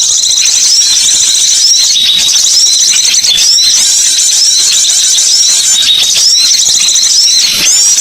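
Recorded small songbirds twittering in a dense, unbroken stream of high-pitched chirps and short gliding notes, several calls overlapping: a bird-lure call recording.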